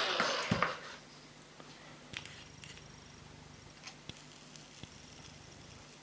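Heat gun switched off: its fan and blower noise dies away within the first second, the whine falling in pitch as it winds down. After that only a few faint scattered clicks and taps.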